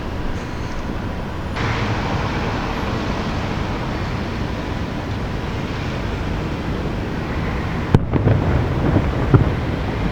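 Aerial fireworks bursting in the distance: a sharp crack about eight seconds in, then a few low booms over a steady noisy background.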